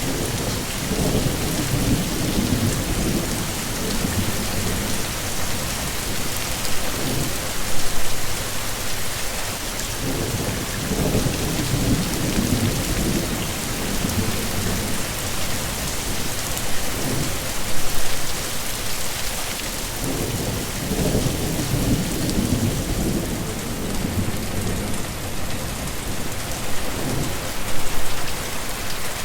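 Heavy rain falling steadily with a constant hiss, while low rumbles of thunder swell and fade several times, the strongest about every ten seconds.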